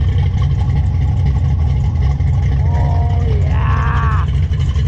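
Car engine idling with a loud, steady low rumble. A voice rises briefly over it about three seconds in.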